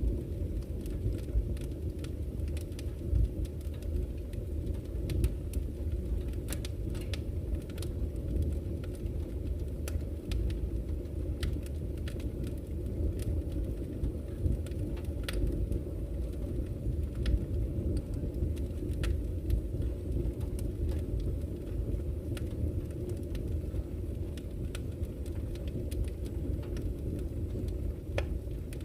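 Wood campfire crackling, with irregular sharp pops and snaps, several a second, over a steady low rumble of flowing river water.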